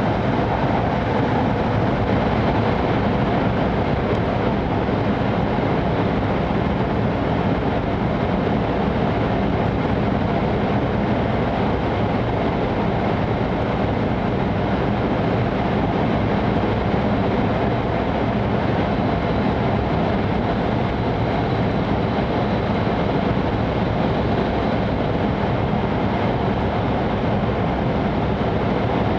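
Steady running noise inside the passenger cabin of an E5 series Shinkansen at speed: an even rumble and rush of wheels on rail and air, with a faint high steady tone.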